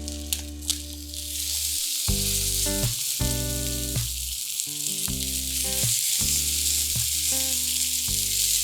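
Meat sizzling on a small iron griddle plate: a steady hiss that builds from about a second in, over background music, with two light clicks near the start.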